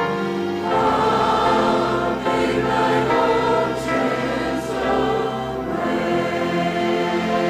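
Choir singing a hymn with instrumental accompaniment, sustained notes moving from chord to chord.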